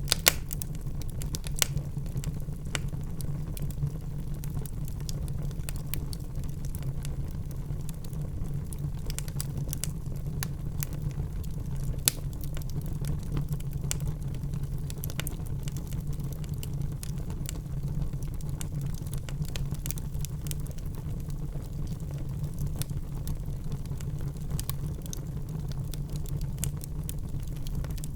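Wood fire burning in a fireplace: a steady low rumble of the flames with irregular crackles and occasional sharper pops from the burning logs.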